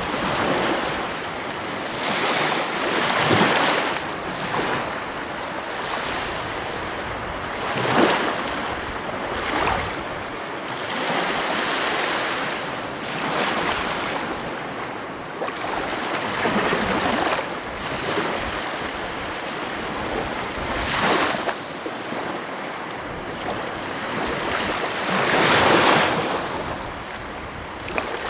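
Heavy ocean waves breaking on the coast: a continuous rush of surf that swells into a louder crash every few seconds, the strongest near the end.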